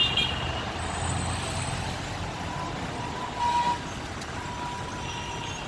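Steady rumble of road traffic and vehicle engines on a busy city street, with a faint thin tone coming in about halfway.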